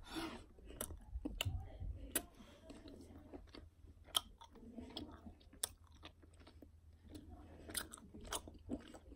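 A child chewing a mouthful of Milky Way chocolate bar close to the microphone: faint chewing with sharp mouth clicks and smacks scattered throughout.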